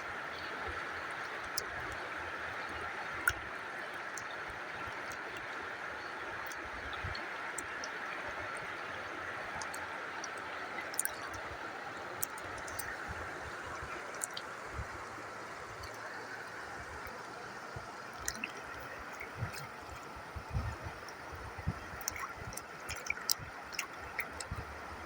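Running water: a steady gurgling rush, with scattered small ticks and splashes that come more often near the end.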